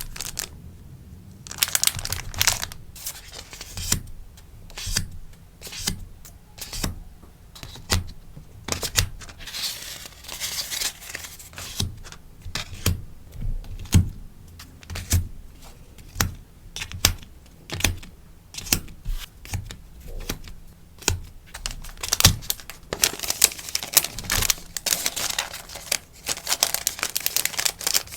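Stickers and packaging being handled up close: crinkling and rustling of plastic sleeves and paper, with many light taps and clicks at an uneven pace, busier rustling near the end.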